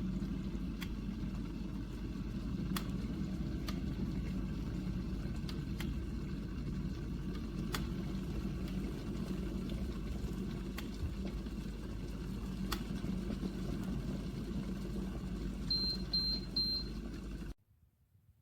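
Arendo stainless-steel electric kettle heating water: a steady low rumble with occasional sharp ticks. Three short high beeps come near the end, then the sound stops suddenly.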